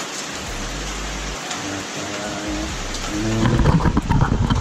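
Steady hiss of rain falling. In the last second or so, a louder clutter of knocks and handling noise comes in over it.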